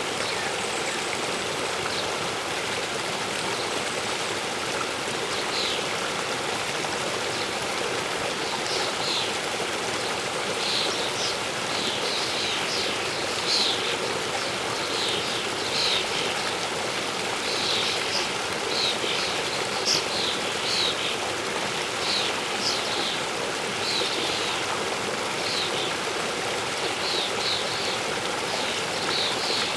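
Steady rush of a waterfall, with small birds chirping over it in quick short high notes from about five seconds in.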